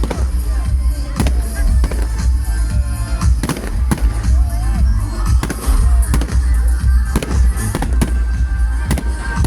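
Fireworks going off: a run of sharp bangs and crackles at irregular intervals, heard over music.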